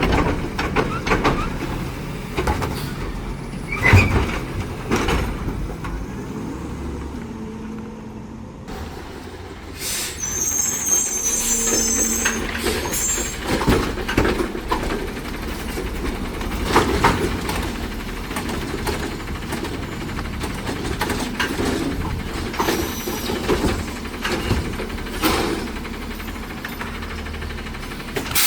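Heil Rapid Rail automated side-loader garbage truck working its route: the engine runs steadily under several sharp knocks and bangs. A burst of air hiss comes about ten seconds in, and a shorter one near the end.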